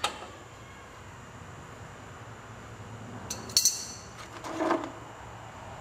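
Metal tools clinking against the tractor while the oil drain plug is being loosened. There is a sharp click at the start and a bright, ringing clink about three and a half seconds in, followed by a short pitched sound.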